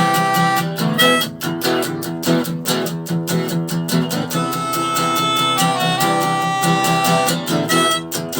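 Live band playing the instrumental intro of a rock song: strummed guitar under a held, repeating melody line, with a melodic phrase that comes round again about five seconds later.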